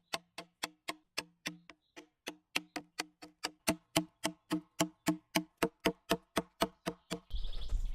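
Rapid, evenly spaced tapping strikes, about three to four a second, each with a short low ringing note. Near the end a rougher rubbing noise with a low rumble begins.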